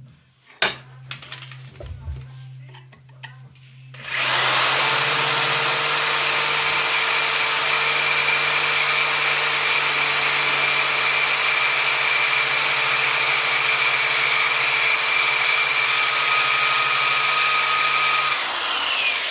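Handling knocks, then a high-speed power tool starts about four seconds in and runs steadily on steel for about fourteen seconds. Near the end it is switched off and its whine falls away as it spins down.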